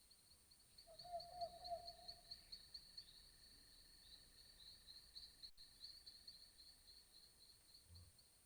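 Faint insect chirping over near silence, a steady run of high chirps about four a second, with a brief faint held note about a second in.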